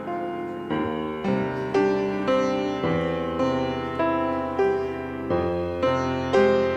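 Piano playing the introduction to a hymn: chords struck about twice a second, each dying away before the next.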